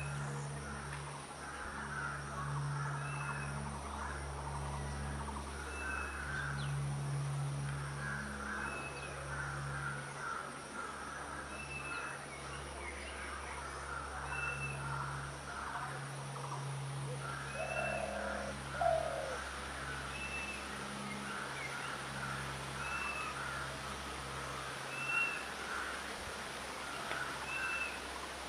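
Wild birds calling: a short, high note repeated about every second and a half over a steady chatter of other bird calls.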